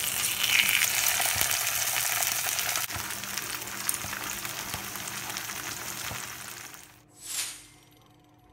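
Tofu slabs frying in hot vegetable oil in a frying pan: a dense, steady crackling sizzle that cuts off about seven seconds in, followed by a brief rush of noise.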